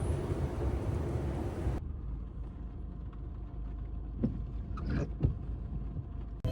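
Steady low rumble of a car on the road. A few short knocks come near the end.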